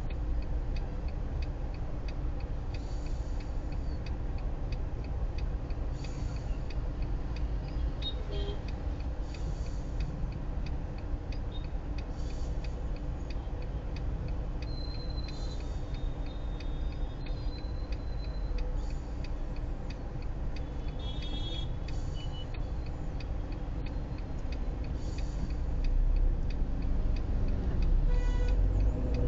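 Car interior in slow city traffic: a steady low engine and road rumble with an even ticking running through it. It grows louder near the end.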